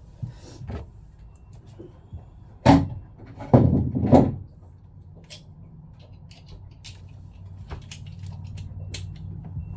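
Several loud knocks and clunks of hard objects being handled, the loudest about three and four seconds in, then a few lighter clicks, over a steady low hum.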